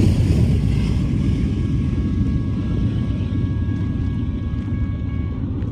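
Rumble of a departing freight train's rear BNSF GE C44-9W diesel-electric locomotive, a distributed-power unit at the tail of the train, fading slowly as it moves away. A faint, steady high chord is held for about four seconds in the middle.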